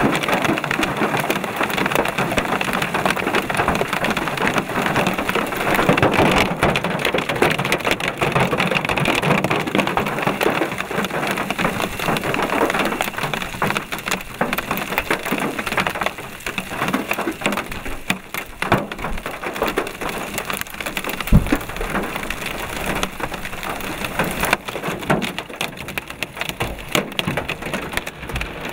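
Heavy hail and rain pelting down, with a dense hiss of rain full of many sharp, hard impacts of hailstones striking surfaces. It eases somewhat over the second half.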